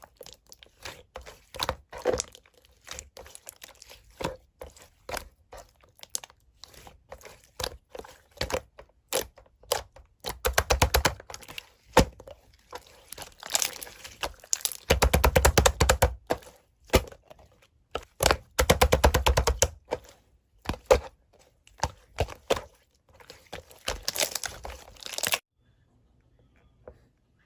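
Slime being pressed and squeezed by hand, making sharp clicks and pops with several quick runs of rapid crackling. It stops shortly before the end.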